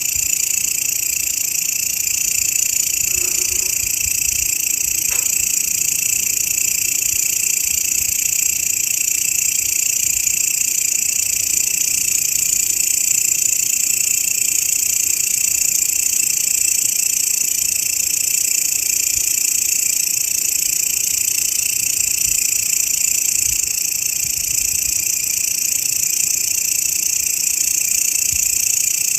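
Grasshopper stridulating continuously: a steady, high, shrill buzz that neither pauses nor changes.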